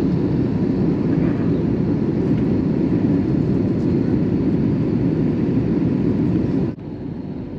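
Steady roar of airflow and engines inside the cabin of an Airbus A321 airliner in flight. It drops abruptly to a quieter cabin hum near the end.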